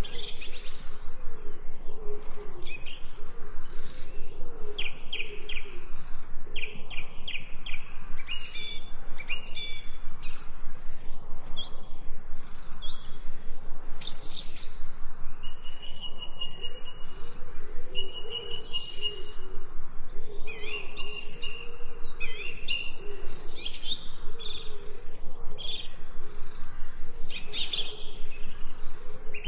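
Many wild birds singing and chirping at once, a dense, continuous chorus of short calls, with a few longer steady trills near the middle.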